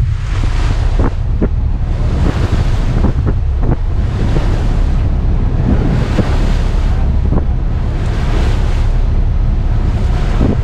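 Wind buffeting the microphone over the rush of sea water past a moving ferry, with a steady low rumble. The water hiss swells and fades every couple of seconds.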